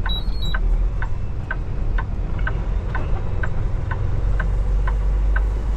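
Turn-signal clicker in a Kenworth T680 semi-truck cab ticking steadily about twice a second, over the steady low rumble of the diesel engine. A short high beep sounds right at the start.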